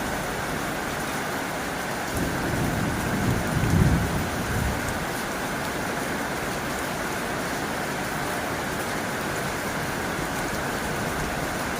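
Heavy rain falling steadily on a tin roof, a dense even hiss. A low rumble of thunder swells about two seconds in and fades out by about five seconds.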